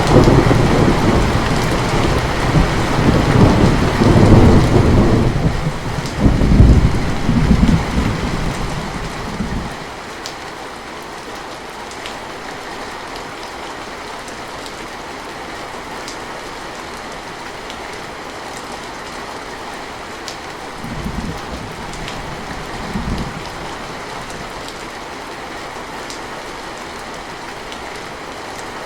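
Steady rain with a long roll of thunder that is already rumbling at the start, swells twice and dies away about ten seconds in. Two brief, fainter rumbles come about two-thirds of the way through, over the rain.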